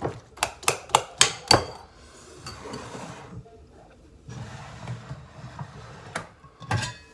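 A metal utensil knocking against a mixing bowl in a quick run of sharp strikes. Softer scraping follows as the egg and vegetable mixture is stirred, and two more knocks come near the end.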